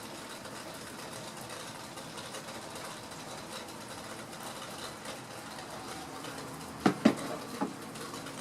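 A steady machine-like hum, then three sharp knocks close together about seven seconds in.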